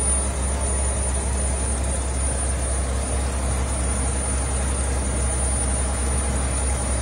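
1965 Chevrolet Corvair Monza's air-cooled 110-horsepower flat-six engine idling steadily, heard up close at the open engine compartment.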